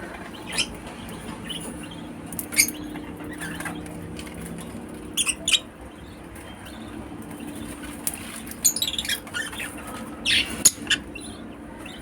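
Lovebirds giving short, sharp high chirps and squeaks, scattered singly and then in quick clusters about halfway through and again near the end, over a faint low steady hum.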